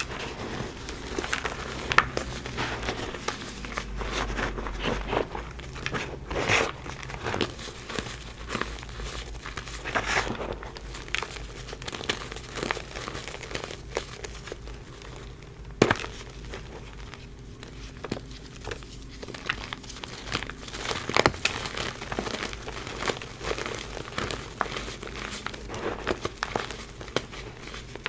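Reformed gym chalk being crushed and crumbled, a dense irregular crunching and crackling with a few louder sharp snaps.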